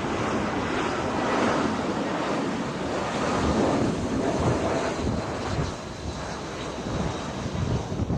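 Strong gusty wind buffeting the microphone, mixed with the rumble of a jet airliner's engines as it comes in to land.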